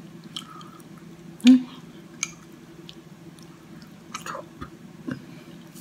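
Close-up mouth sounds of someone chewing a warm, soft cookie with melted chocolate: scattered wet smacks and small clicks, with one louder mouth sound about a second and a half in. A steady low hum lies underneath.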